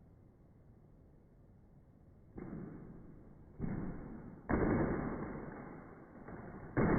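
Four sudden thuds, about a second apart and each fading away slowly, after a stretch of faint background; they sound muffled and dull.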